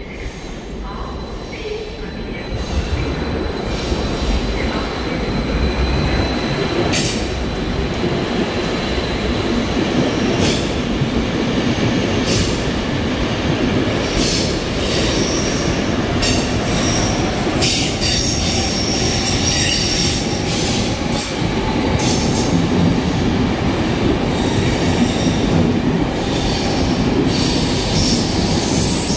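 Double-deck commuter trains moving through an underground station, a loud rolling rumble with repeated high wheel squeal and screech. It builds over the first few seconds and stays loud.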